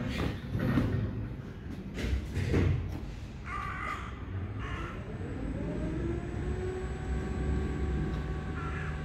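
An electric lift's traction motor starting up about five seconds in: a whine rising in pitch, then holding steady as the motor hauls the car up. Just before it come two short harsh bursts.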